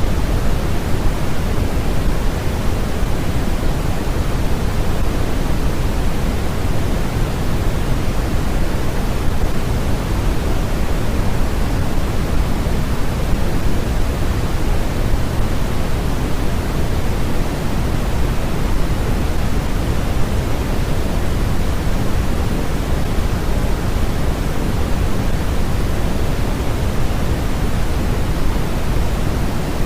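Steady synthetic noise for sleep, an even, unbroken hiss with most of its weight in the low end, like pink noise.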